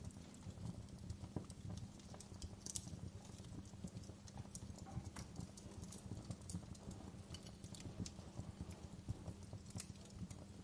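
Wood fire burning in a fireplace: a low steady rumble of the flames with irregular crackles and pops from the burning logs.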